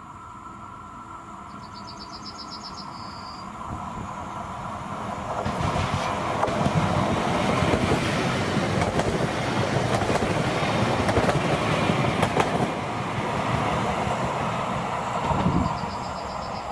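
A train passing close by. Its noise builds over the first five or six seconds, the wheels clack over rail joints for several seconds, then it eases near the end. A bird chirps briefly about two seconds in and again near the end.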